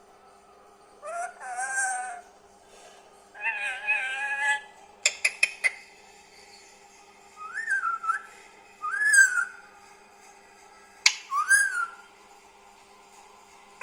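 Indian ringneck parakeet calling: two chattering calls, then three short whistles that rise and fall. A quick run of sharp clicks comes about five seconds in, and another single click just before the last whistle.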